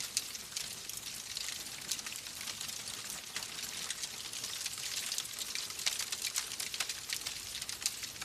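Wood fire crackling: a steady hiss with irregular sharp pops and snaps.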